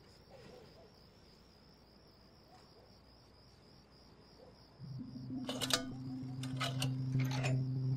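Faint, steady cricket-like chirring. About five seconds in, a much louder low steady drone starts, with several sharp clicks over it.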